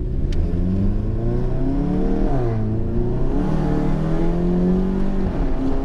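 Volkswagen MK7 GTI's turbocharged 2.0-litre four-cylinder, Stage 3 tuned with a catless downpipe, pulling under acceleration. The engine note climbs, drops sharply about two and a half seconds in as the DSG gearbox shifts up, then climbs again and dips once more near the end.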